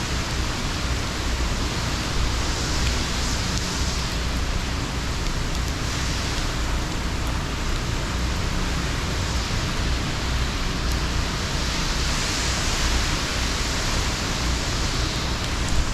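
Hurricane wind and heavy rain: a steady, loud rushing with a low rumble beneath, swelling and easing in gusts every few seconds.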